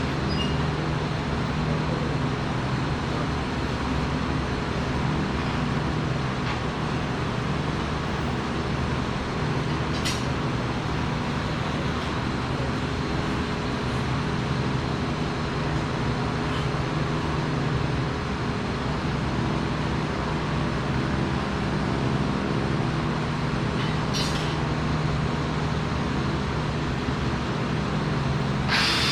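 Steady mechanical hum, a continuous low drone with an even noisy wash over it, broken only by two faint clicks about ten seconds and twenty-four seconds in.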